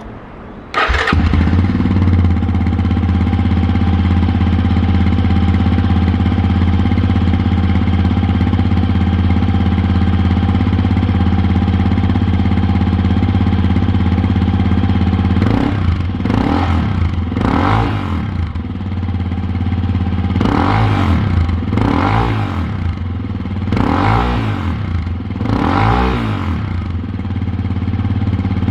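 Yamaha Serow 250's single-cylinder four-stroke engine, breathing through a BEAMS Power Trek aftermarket muffler, starts about a second in and idles steadily. About halfway through it is revved in a run of short throttle blips, each rising and falling back to idle.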